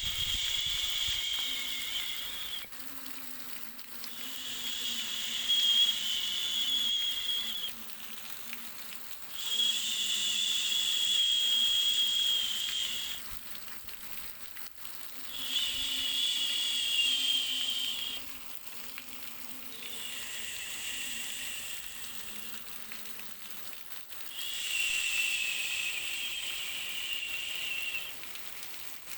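Baby-sleep white noise: a whistly hiss that swells for about three seconds and eases off for about two, over and over in a slow, even cycle, with a faint low hum underneath.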